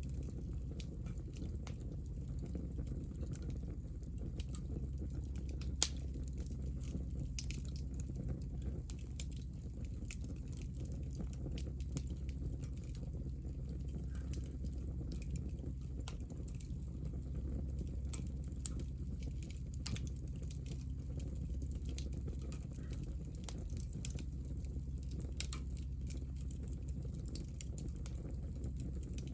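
Hinoki (Japanese cypress) offcuts burning, crackling with scattered small pops over a steady low rumble, with one sharper pop about six seconds in.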